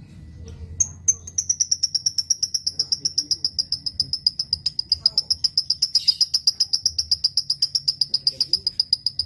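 Lovebird singing a long unbroken trill (the 'ngekek' song): a rapid run of sharp high chirps, about seven a second, starting about a second in and sliding slowly lower in pitch.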